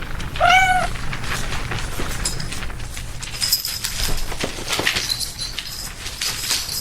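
A cat meows once, short and rising then falling, about half a second in. Light clicks and a faint high whistling tone follow.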